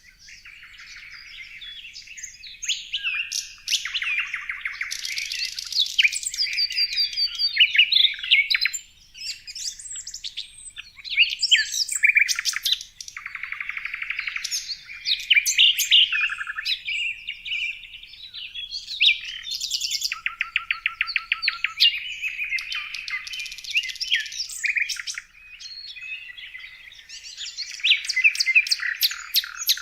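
Several songbirds chirping and singing over one another, a dense chorus of high chirps, whistles and rapid trills.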